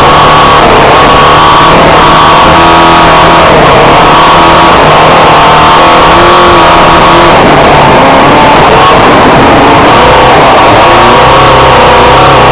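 Renault Clio 16V autocross car's engine under hard throttle, very loud and close, its pitch rising and dropping as the driver works through the gears and corners on the dirt track.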